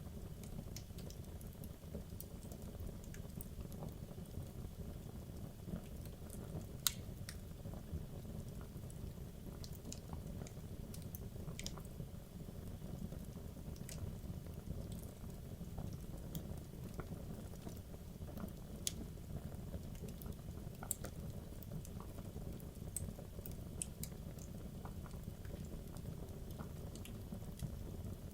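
Wood logs burning in a fireplace: a steady low rumble of flame with irregular crackles and sharp pops, the loudest pop about 7 seconds in.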